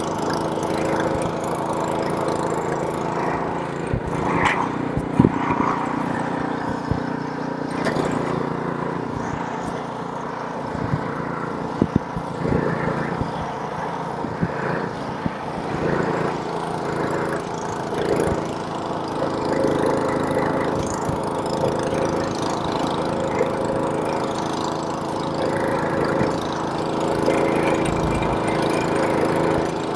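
Gas snowblower's small engine running steadily under load, with a few sharp knocks and clatters scattered through it.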